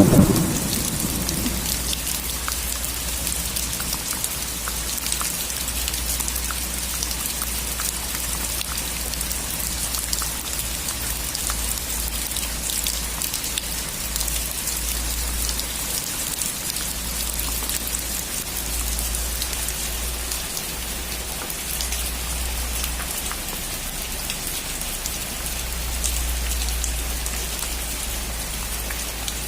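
Steady rain falling on a roof, an even hiss full of small individual drop ticks, with a low rumble underneath. The tail of a thunder roll dies away within the first second.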